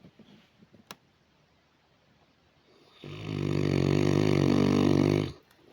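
St. Bernard dog snoring in its sleep: after a few quiet seconds, one long loud snore starts about three seconds in and lasts a little over two seconds.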